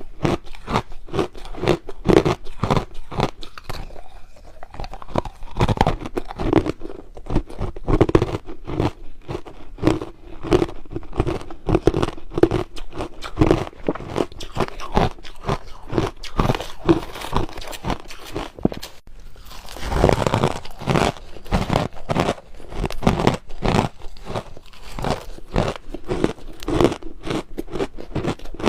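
Crushed ice being bitten and chewed close to the microphone: a quick, continuous run of crunches, with a louder stretch about twenty seconds in.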